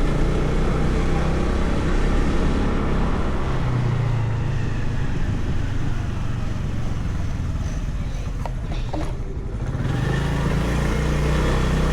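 Motorcycle engine running under way, heard from the rider's seat with wind and road noise. The engine eases off about eight seconds in, with a couple of light clicks, and picks up again near the end.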